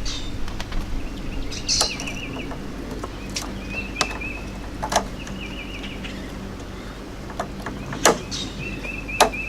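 Scattered taps and clicks of a replacement electric water heater thermostat being slid down into its mounting bracket against the tank, with a sharper click about eight seconds in as it snaps into place.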